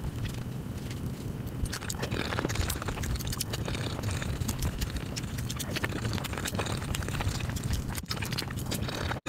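Close-miked eating sounds: chewing and tearing of flaky paratha flatbread, a dense run of crackles, crunches and wet mouth clicks.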